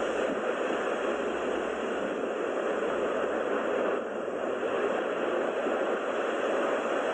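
Steady rushing noise with no distinct events, dipping briefly in level about four seconds in.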